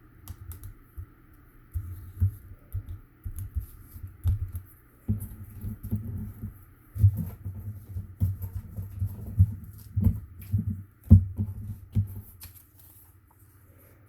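Cardboard and paper being handled close up: irregular dull knocks, pats and rubbing as glued paper pieces are pressed into place inside a cracker box, with a few sharper clicks. The handling is busiest in the second half.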